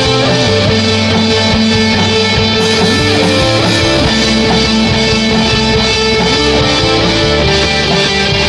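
Rock band playing an instrumental passage without vocals: distorted electric guitar chords over bass, the bass line changing about every second.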